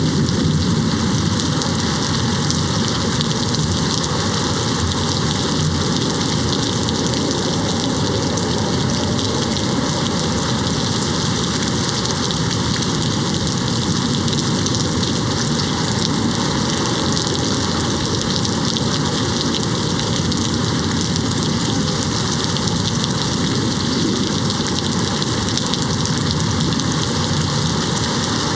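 Steady rain hitting a window, an even hiss of drops with no thunder.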